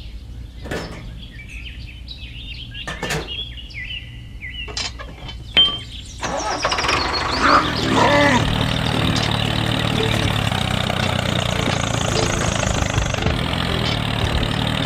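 Scattered clicks and knocks, then a sharp knock about six seconds in, after which a small motor starts and runs steadily.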